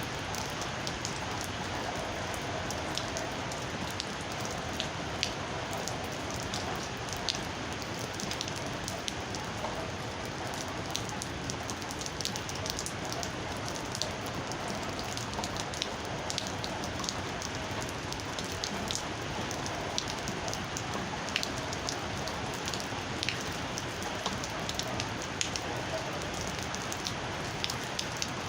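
Steady rain falling, with many separate drops striking sharply close by.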